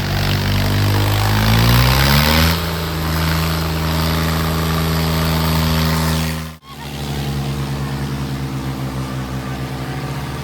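Tractor diesel engine revving up, rising in pitch over a couple of seconds and then held at high revs. The sound cuts out abruptly for an instant about six and a half seconds in and comes back as a steady, throbbing engine note.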